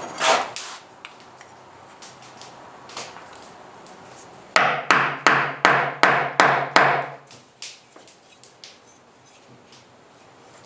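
Hammer blows: one knock near the start, then a quick run of about seven strikes, roughly three a second, about halfway through, trailing off into a few lighter taps.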